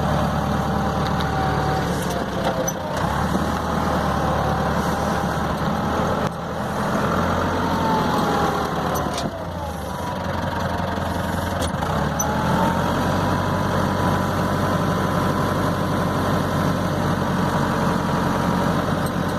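Tractor engine running steadily, with a whine that falls and rises in pitch a few times as it is driven.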